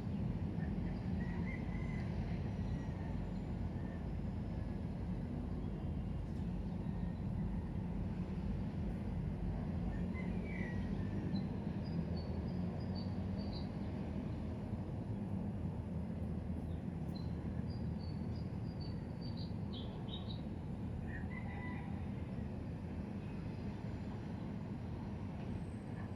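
Birds chirping in short scattered calls over a steady low rumble of background noise.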